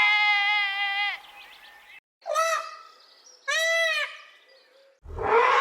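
Animal bleating: one long held bleat, then two shorter bleats about a second apart. A rougher, noisier call starts near the end.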